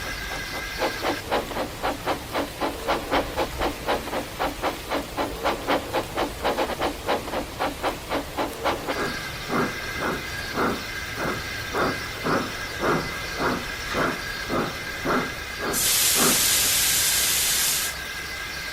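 Steam locomotive chuffing, quickly at first, then slowing as it draws to a stop. A loud hiss of escaping steam follows for about two seconds and cuts off suddenly.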